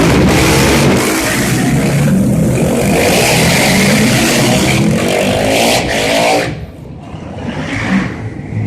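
250 cc motorcycle engine running loud at high revs, its pitch climbing, then dropping away sharply about six and a half seconds in to a quieter engine sound.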